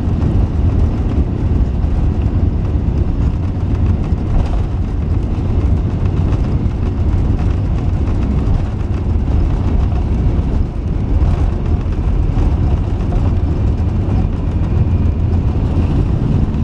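Airbus A380 cabin noise: a steady, loud, low rumble of the engines and airflow.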